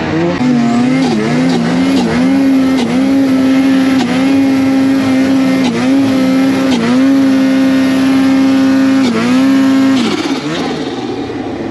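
Snowmobile engine held at high revs, its pitch mostly steady with several brief dips as the throttle is eased, then dropping away about ten seconds in.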